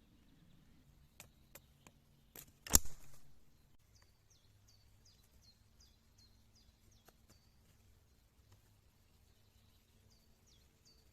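A few light clicks, then a sharp knock about three seconds in, the loudest sound. After it a small bird calls in a quick series of short, high, dropping notes, about three a second, and starts again near the end.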